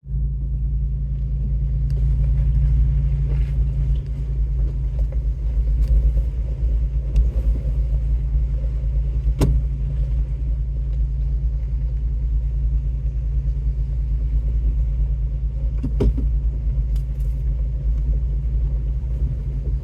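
Vehicle engine running with a low, steady rumble while driving, with a few sharp knocks or rattles; the loudest comes about nine and a half seconds in and another around sixteen seconds.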